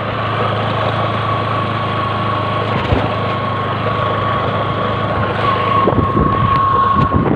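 Bajaj Discover motorcycle's single-cylinder engine running steadily, with a steady high whine over its low hum and a few faint knocks.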